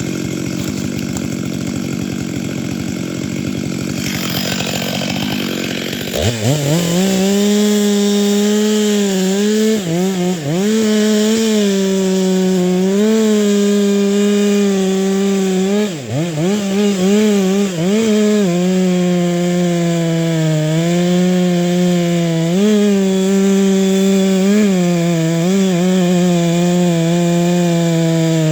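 Two-stroke chainsaw cutting firewood. After about six seconds of a rougher, lower noise, it runs at high revs, with its pitch sagging briefly and recovering several times as the chain bites into the wood.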